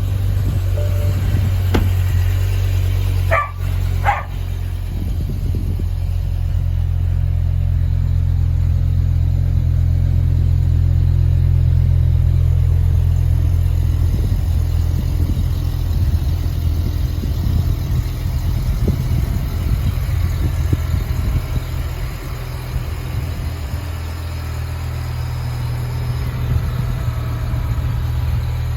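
BMW E60 M5's 5.0-litre V10 idling steadily just after a cold start, easing a little lower about two-thirds of the way through. A dog barks twice about four seconds in.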